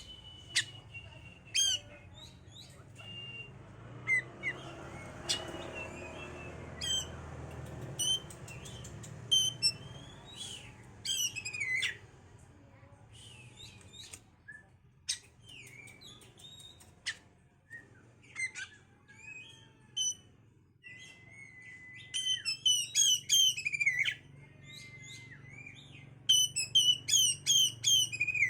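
Oriental magpie-robin song: varied sweet whistles and sharp chirps, turning into fast repeated trilled phrases twice in the last third.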